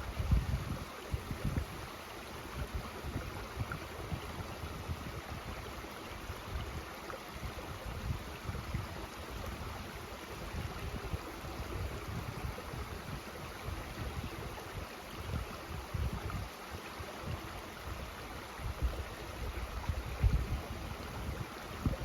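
Mountain stream running steadily, with irregular gusts of wind buffeting the microphone.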